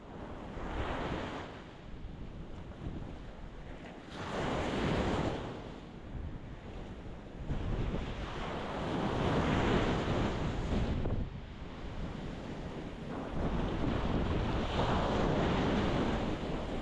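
Ocean waves breaking against a rocky shore, surging and washing back in about four swells, the longest in the middle.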